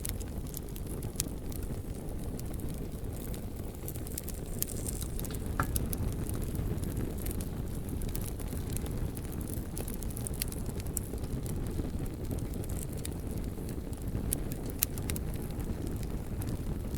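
Campfire burning, with frequent sharp crackles and pops from the wood scattered over a steady low rumble.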